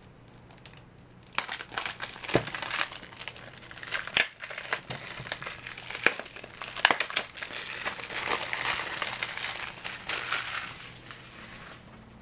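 Packaging crinkling and crumpling as a Blu-ray is unwrapped by hand, with scattered sharp clicks and snaps. It dies down near the end.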